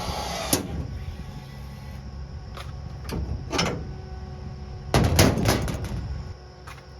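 Scattered knocks and clatter of hands-on shop work on a race car's body panels, with a sharp cluster of knocks about five seconds in over a low steady hum.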